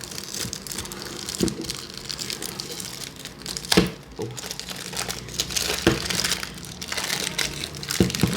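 Crinkling plastic wrapping as a speed cube is unwrapped, with a few sharp knocks and taps of handling scattered through it.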